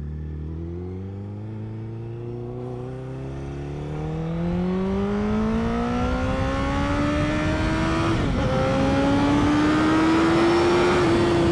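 Honda CBR1000RR inline-four engine pulling under steady acceleration, its pitch and loudness climbing slowly for several seconds. The pitch briefly dips about eight seconds in and then carries on rising.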